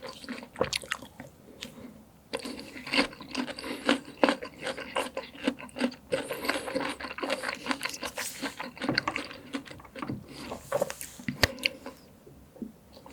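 Close-miked chewing of juicy peach: wet mouth sounds made of a quick, uneven run of small clicks and smacks, with a short pause about two seconds in, dying away shortly before the end.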